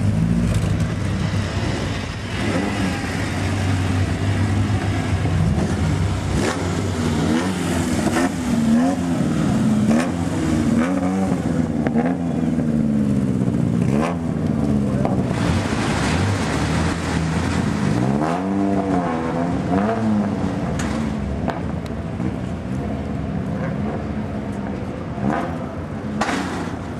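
Engines of historic cars accelerating around a race circuit, revs repeatedly climbing and dropping through gear changes. The engine pitch swings sharply up and back down about 18 seconds in.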